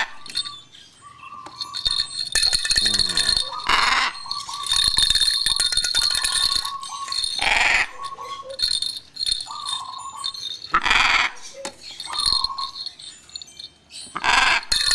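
Parrot squawking harshly about five times, roughly every three to four seconds, with shorter chattering calls and clicks between, over a steady high ringing in the background.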